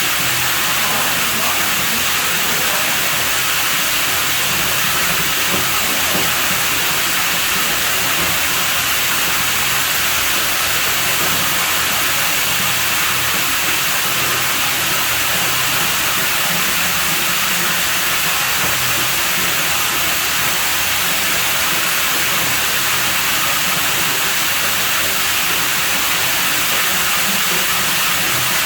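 Steady rush of running water, an even hiss that stays constant throughout.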